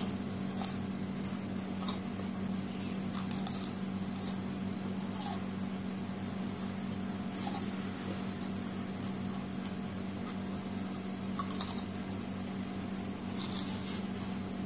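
Chewing crisp jalebi: scattered short crunches and wet mouth clicks, a few of them louder near the end, over a steady low hum.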